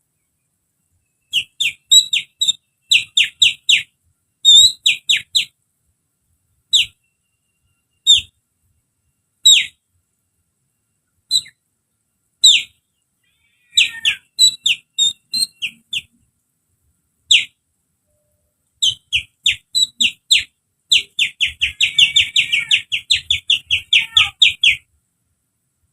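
Hand whistle blown through the fingers, imitating a sooty-headed bulbul's song: short, sharp whistled notes that drop in pitch, in little groups with pauses between them, then a fast run of many notes near the end.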